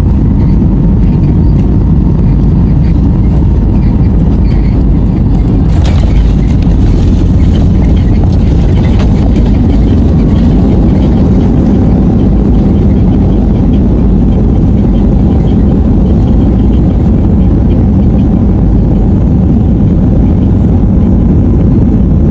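Airliner cabin noise: a loud, steady low rumble of engines and airflow heard from a passenger seat. About six seconds in, a sudden burst of extra noise comes in and stays on as added hiss.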